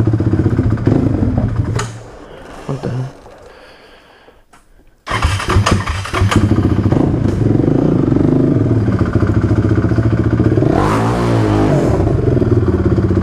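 A 2006 Honda TRX450ER's single-cylinder four-stroke engine idles, dies away about two seconds in, then fires up again suddenly about five seconds in and idles on, with a brief rev near the end.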